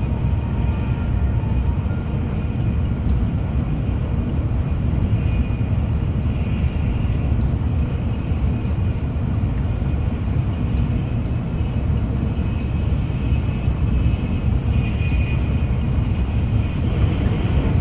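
Steady low rumble of a Tokaido Shinkansen Nozomi train running at speed, heard from inside the passenger cabin.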